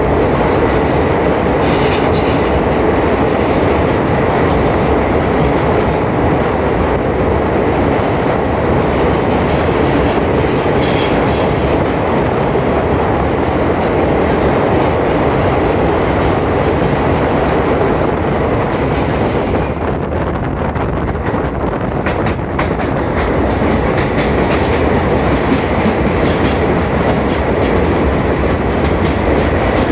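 Passenger train running along the track: a steady rumble of wheels and carriages with the clickety-clack of rail joints. About twenty seconds in, the upper hiss drops briefly, then comes back.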